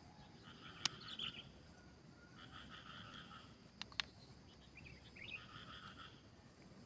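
A small animal giving a trilled call of about a second, repeated four times with pauses of a second or two between calls, with a few sharp clicks about a second in and near the middle.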